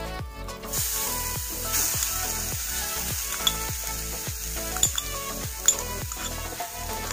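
Grated coconut sizzling as it goes into a hot non-stick pan with ghee, starting about a second in and stirred with a spoon. A few sharp clicks from the spoon knocking against the glass bowl and pan. Background music with a steady beat runs underneath.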